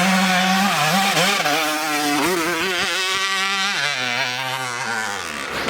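Dirt bike engine revving under throttle, the pitch wavering with blips of the throttle. Then the revs fall away steadily over the last couple of seconds.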